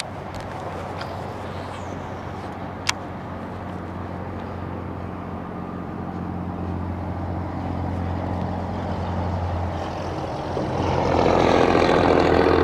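An engine running with a steady low hum that grows louder, a stronger, busier engine note coming in near the end. A single sharp click about three seconds in.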